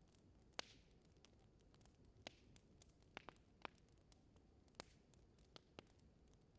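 Wood fire crackling in a fireplace: about eight sharp, irregular pops and snaps over a faint low hiss, the loudest about half a second in.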